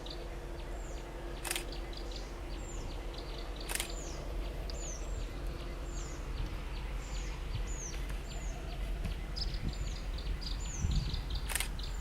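Birds calling: short high chirps that sweep downward, repeated every half second or so, together with fast ticking trills, over a steady low rumble. A faint steady hum fades out about halfway through.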